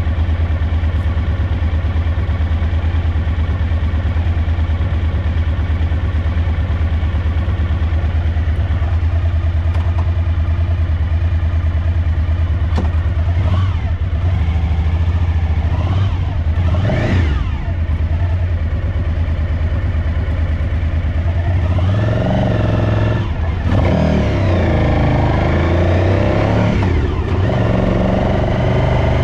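Suzuki DL1000 V-Strom V-twin motorcycle engine running steadily at idle, revved up and back down a couple of times in the second half. The rear cylinder is misfiring.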